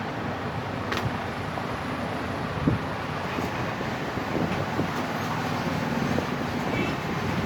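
Steady rumble of road traffic, with a few short clicks and knocks, the loudest about two and a half seconds in.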